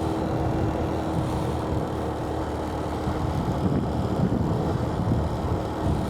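Motorbike running along the road, its engine and rushing road noise steady, with a faint humming tone that fades out about three seconds in.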